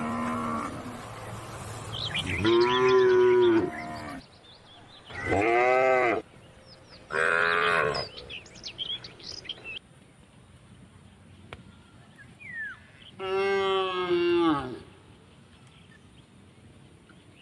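Cattle mooing: four separate drawn-out moos, each rising and falling in pitch, with pauses between them. Faint bird chirps are heard in a gap near the middle.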